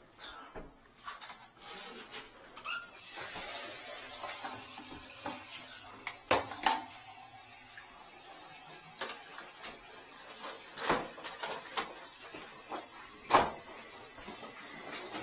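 Scattered knocks and clatter of objects being handled and moved, with a brief hiss about three seconds in and the sharpest knocks around the middle and near the end.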